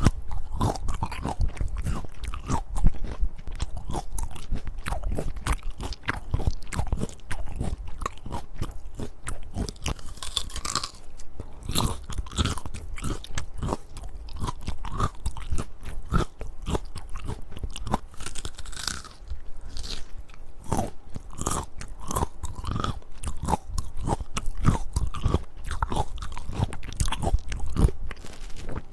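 Close-miked biting and chewing of crisp peaches: a steady run of crunchy bites and chews.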